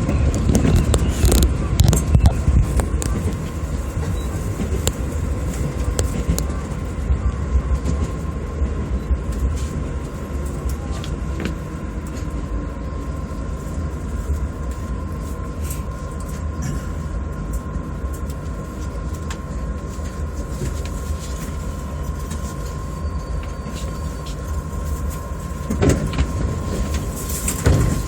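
JR Yokohama Line electric commuter train heard from the front of a passenger car: a steady hum with a constant high whine, and a few louder knocks near the start and again near the end.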